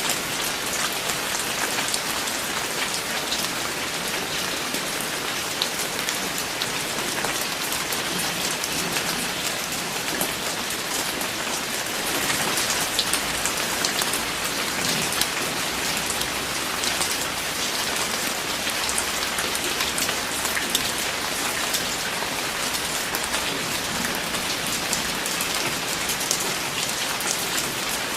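Steady rain falling on a surface, a constant hiss sprinkled with many individual drop ticks.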